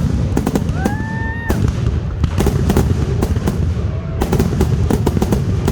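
Fireworks display: a rapid run of sharp cracks and bangs over a continuous low rumble, with a brief rising, held high tone about a second in.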